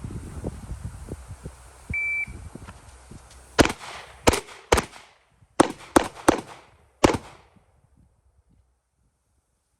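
A shot timer's start beep, then seven pistol shots from a 9mm Glock 19, fired as a timed drill in quick pairs and strings about half a second apart. Handling and wind noise come before the beep.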